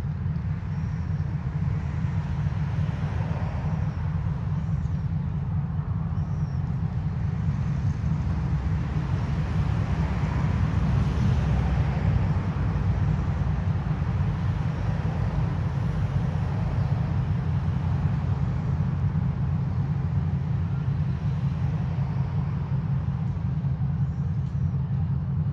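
2TE10UT diesel locomotive's two-stroke diesel engines running, a steady low rumble that swells slightly about ten seconds in.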